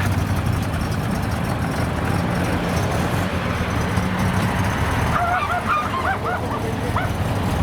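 Car engine idling with a steady low hum. About five seconds in, a run of short wavering honking calls sounds over it for a couple of seconds.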